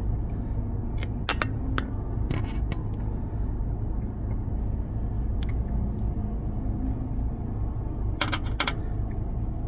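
Steady low rumble around a car with scattered light clicks and metallic clinks, a few around the first two seconds and a quick cluster near the end.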